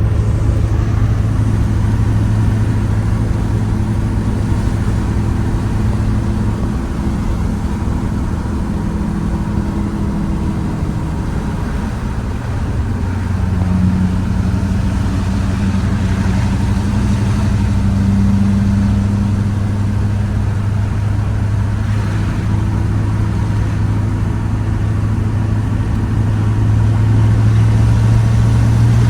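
2004 LB7 Duramax 6.6-litre V8 turbo-diesel with a 5-inch exhaust, pulling the truck down the road with a steady low drone. Its pitch shifts several times as speed changes, and it eases off briefly near the middle before picking back up.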